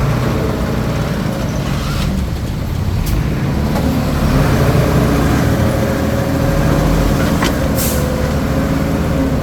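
Komatsu D21P bulldozer's diesel engine running steadily while working, with a few sharp metallic clanks.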